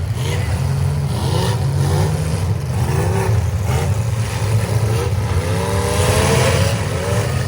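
Several demolition derby cars' engines running together, revved up and down again and again in short rising and falling bursts.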